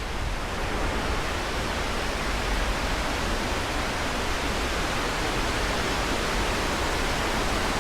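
Waterfall heard close up from its base: a steady, dense rush of falling water.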